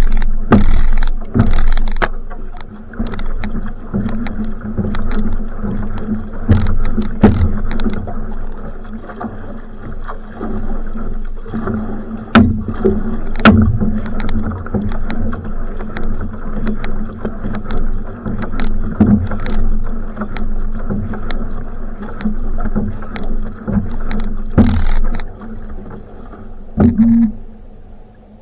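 Outrigger canoe (va'a) at sprint pace: paddle blades catching and splashing in the water about once a second over a steady rush of water and a low hum. The strokes fade out near the end.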